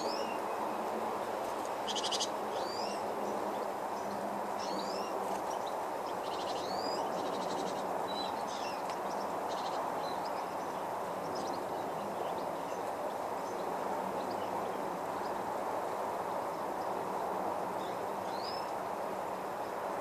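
Small birds giving short rising chirps scattered throughout, with a few quick trills of rapidly repeated notes, over a steady rushing background noise that is the loudest thing heard.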